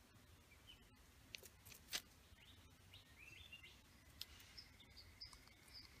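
Faint, quiet bird chirps and short high calls, with a few sharp clicks, the loudest just under two seconds in, and a thin steady whistle-like tone held through the last two seconds.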